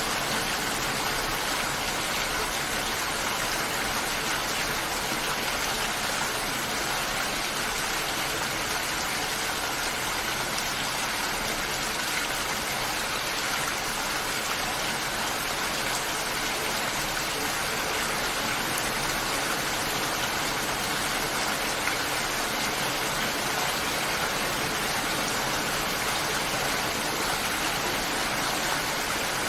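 Steady heavy rain, a continuous even hiss of falling water without let-up.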